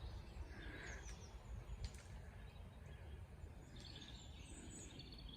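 Faint outdoor background: a steady low rumble with a few short bird chirps, and a single sharp click about two seconds in.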